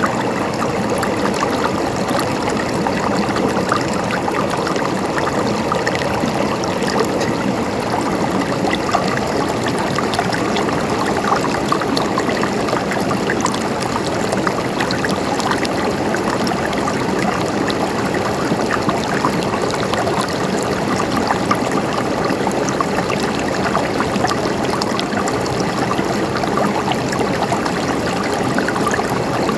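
Water flowing and gurgling in a stream, a steady dense rush with small splashes and trickles.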